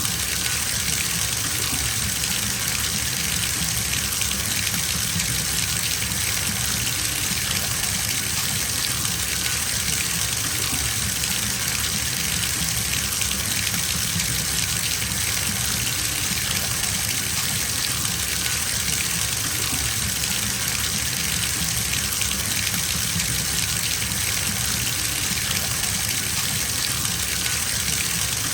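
Water running steadily from a bathtub tap into a filling tub, an even gushing rush.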